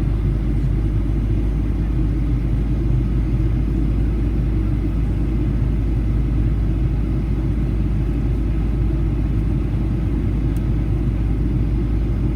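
Steady low rumble of a Boeing 737-800's cabin, heard from a passenger seat, even throughout with no change in pitch or level.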